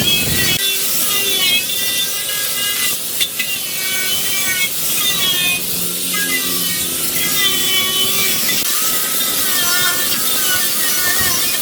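A hand tool scraping or sanding, a steady hiss with wavering high squeals. A low rumble cuts off about half a second in.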